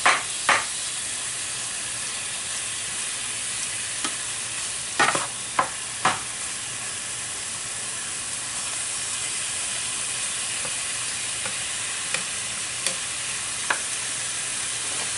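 Strips of filet mignon searing in hot olive oil in a pan: a steady sizzle. A few sharp clicks of a utensil against the pan come near the start and again about five to six seconds in.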